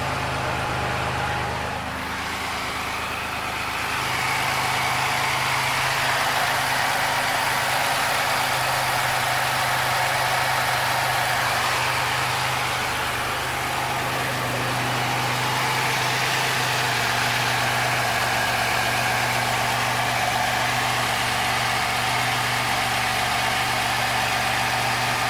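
A 1987 Oldsmobile Toronado's 3.8-litre V6 idling steadily just after its first start-up following fresh valve cover gaskets, with the loudness dipping slightly about two seconds in and again near the middle.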